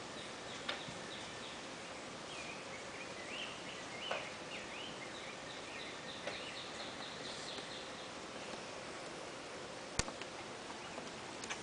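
Outdoor ambience with a small songbird singing a run of short high chirps for several seconds in the middle, and a few faint sharp clicks, the clearest one near the end.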